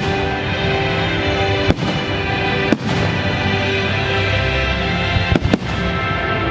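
Fireworks shells bursting with four sharp bangs, the last two in quick succession, over loud accompanying music.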